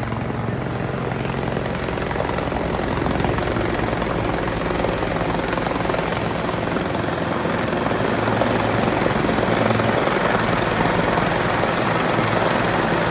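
Helicopter in flight, a steady rotor and engine noise with a low hum, slowly growing louder.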